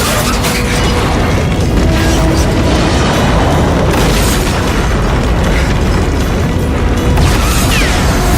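Action-film soundtrack: loud orchestral-style score mixed with deep booms and impact effects.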